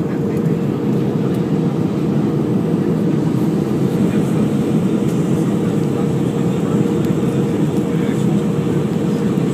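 Steady cabin noise of a Boeing 737-300 in flight: a dense, even rush of airflow and CFM56-3 engine noise with a steady hum running through it.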